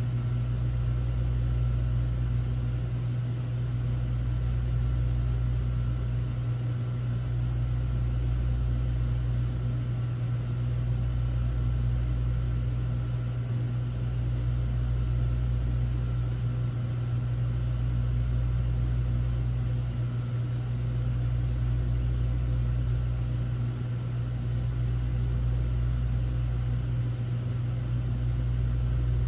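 Air conditioner running with a steady low hum and a faint whirring hiss above it; the deepest part of the hum dips and swells about every three and a half seconds.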